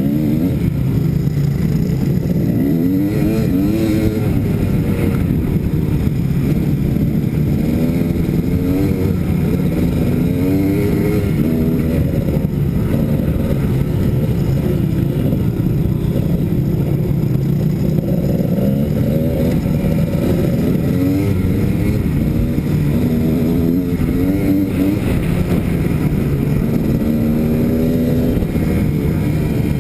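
Kawasaki KDX220 two-stroke single-cylinder engine running under way, its pitch rising and falling again and again as the throttle is opened and closed.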